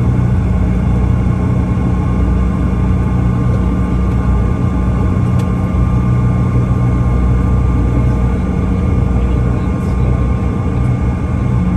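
Airliner cabin noise: a steady low rumble with a constant engine hum.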